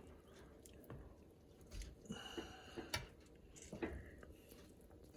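A quiet room with a few faint clicks and taps, kitchen utensils and dishes being handled during cooking.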